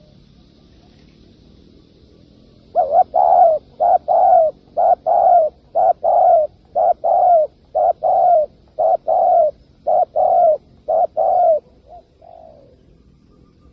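Spotted dove cooing: a run of about fourteen loud, evenly spaced coos starting a few seconds in, then two faint notes near the end.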